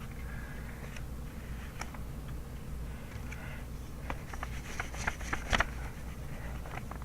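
Pencil writing on paper: short scratchy strokes, then a run of sharp ticks and taps about four to six seconds in, the loudest just past five and a half seconds, over a steady low room hum.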